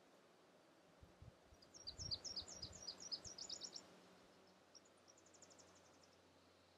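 A small songbird singing: a rapid run of high chirping notes for about two seconds, then a fainter, quicker trill.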